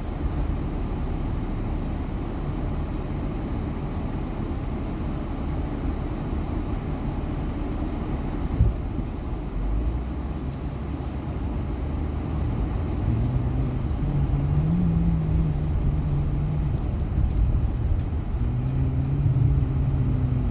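Road and engine noise of a truck heard from inside its cabin while driving: a steady low rumble, a single knock about eight and a half seconds in, and from about two-thirds of the way through an engine note that rises and falls.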